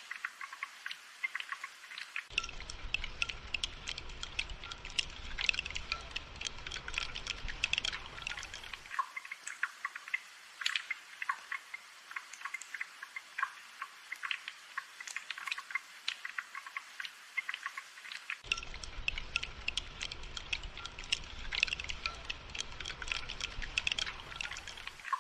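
Rainfall: a dense, continuous scatter of drops ticking and dripping close by, with a low rumble that comes in about two seconds in for several seconds and again past the middle.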